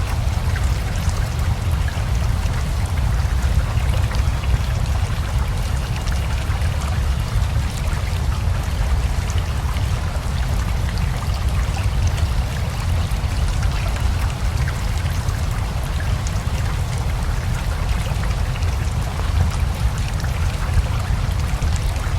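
Rain falling steadily over a flowing river: a constant rushing wash with a deep low rumble and a fine patter of drops.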